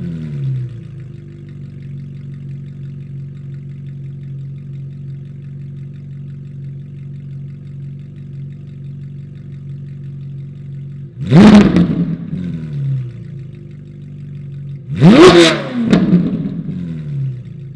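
Ferrari 458 Spider's V8 with an ARMYTRIX aftermarket exhaust on a cold start, easing down from its start-up flare into a steady fast idle. Twice in the second half it is revved sharply, each rev falling straight back to idle.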